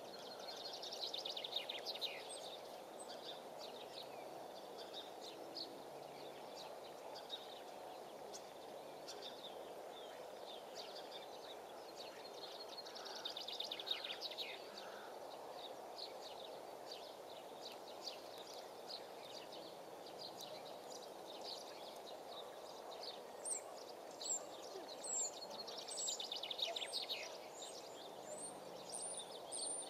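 Songbirds singing outdoors, with a rapid trilled song phrase repeated about every twelve seconds and scattered short chirps, over a steady background hum.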